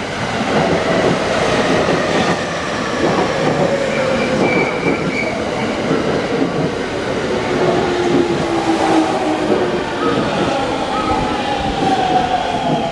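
Electric commuter train pulling into the platform, its motor whine falling slowly in pitch as it brakes, over wheel clatter and rumble.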